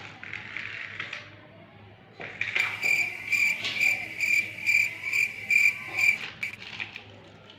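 A high, cricket-like chirping tone that pulses about twice a second for some four seconds, starting a couple of seconds in.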